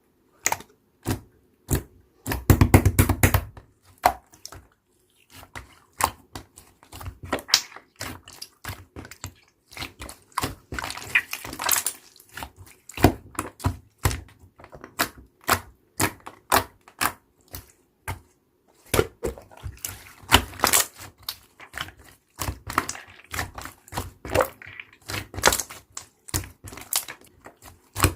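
Slime being squeezed, pressed and stretched by hand, giving an irregular string of sharp clicks and pops that come in quick runs at times.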